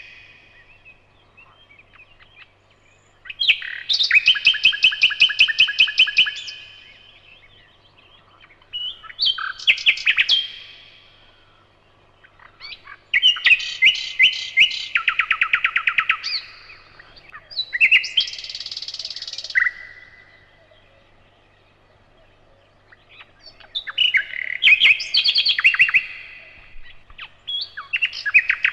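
Nightingale singing in separate phrases of rapid repeated notes and trills, about six phrases with pauses of a few seconds between them.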